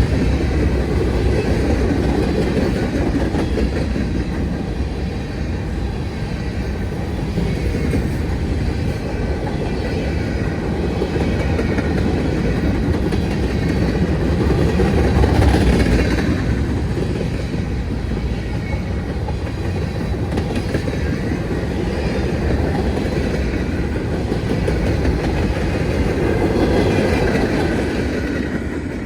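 Freight train cars rolling past, a steady rumble with wheels clattering over the rail joints, swelling a little about halfway through.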